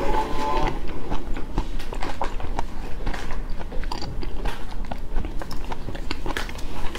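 Close-miked mouth chewing of a large prawn: a steady run of wet smacks and small crunchy clicks at an uneven rhythm.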